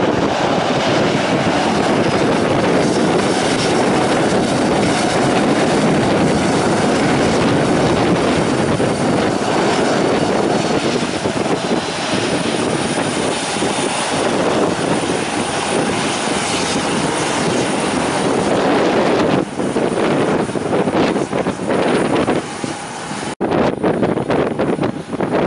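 A loud aircraft engine close by, mixed with wind buffeting the microphone, with a thin high whine from about a third of the way in. The sound cuts off abruptly near the end.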